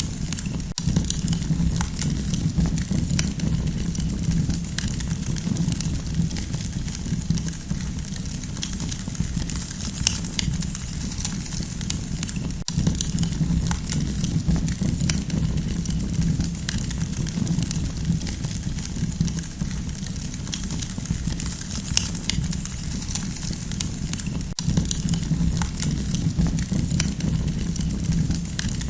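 Campfire burning, with a steady low rush under frequent small crackles and pops.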